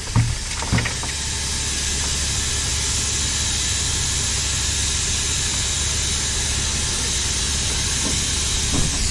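A truck's diesel engine runs steadily under a loud, even hiss, with a couple of light knocks in the first second. The hiss drops away near the end.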